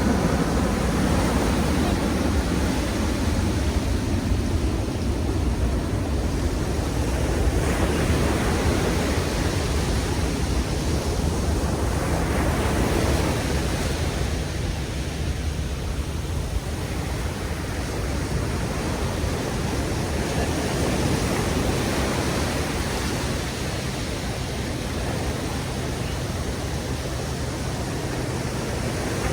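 Ocean surf breaking on a beach: a steady wash of waves swelling and easing every few seconds, with some wind rumbling on the microphone.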